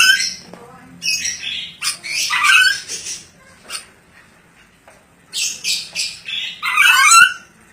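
Ornate lorikeet squawking in three bursts of loud, screechy calls: one right at the start, one from about a second in to three seconds, and one near the end.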